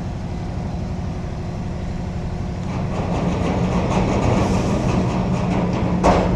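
Heavy container truck's diesel engine running steadily at low speed, with a single sharp knock about six seconds in.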